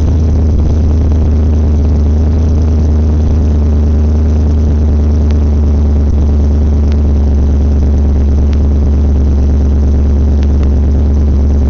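Cammed, centrifugally supercharged V8 of a 2013 Holden VF Commodore SS-V idling steadily through a full 3-inch Manta exhaust, with the lumpy note of its aftermarket camshaft.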